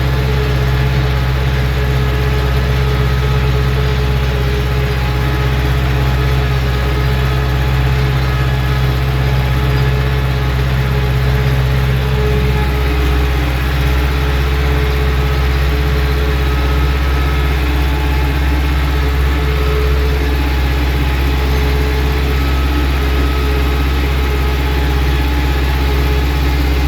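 Ursus C-360 tractor's four-cylinder diesel engine running steadily at constant revs, its note shifting slightly about halfway through.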